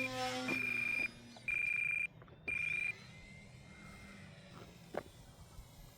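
Electronic alarm beeping: a steady high tone in beeps about half a second long, about once a second, stopping about three seconds in. A low steady hum under the first beep fades out about a second in.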